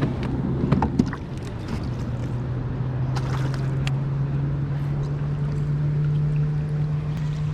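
A boat's motor running with a steady low hum that rises slowly in pitch, with a few clicks and knocks about a second in and again a few seconds later.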